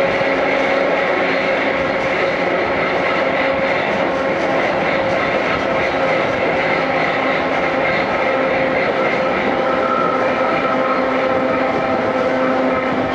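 Running noise inside an old-style passenger coach of a steam-hauled train: a steady rush of wheels on rail with a few held tones through it.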